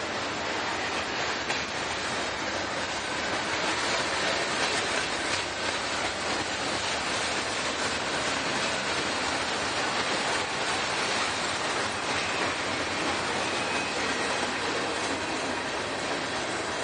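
Norfolk Southern freight train passing, with a steady noise of steel wheels running on the rails.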